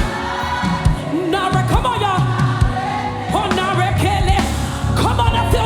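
Live gospel worship band playing a steady beat, with a lead vocalist singing a melody of long held notes with vibrato that comes in about a second in.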